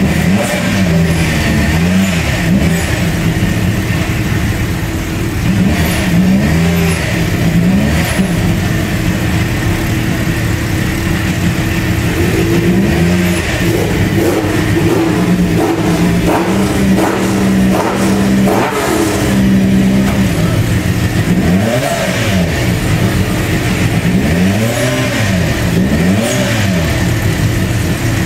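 Group B rally car engines warming up: idling with repeated blips of the throttle, the revs rising and falling again and again, and held higher for several seconds around the middle.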